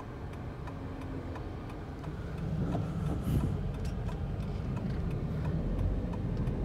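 Daihatsu Ayla's engine and road noise heard from inside the cabin as the car drives off, a low rumble that grows louder about two seconds in and again near the end.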